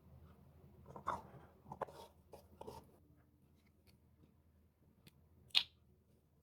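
Paper being handled during hand crafting: a couple of seconds of crinkling, crackly rustles, then a single sharp click.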